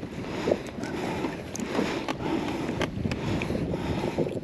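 Water lapping against a kayak hull, with wind on the microphone and a few short, light clicks.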